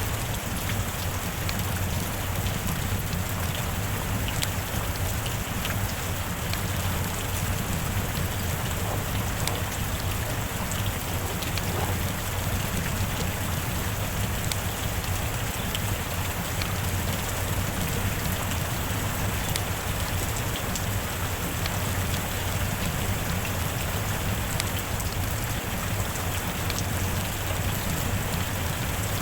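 Steady rain falling: an even, unbroken hiss with scattered sharp ticks of individual drops.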